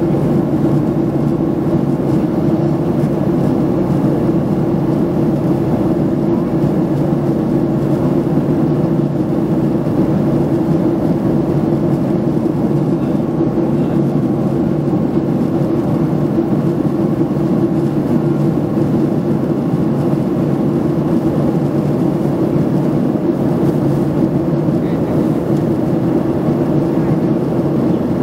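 Steady drone of a jet airliner in flight, engine and airflow noise heard inside the passenger cabin, with a constant low hum.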